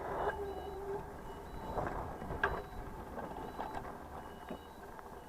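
Mobility scooter's reversing beeper sounding faint, short repeated beeps while the scooter backs up, with a few sharp clicks and knocks.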